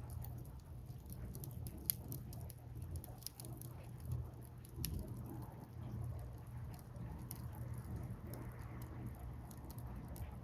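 Wood fire burning, the logs crackling with irregular sharp pops, the loudest about two seconds in, over a steady low rumble.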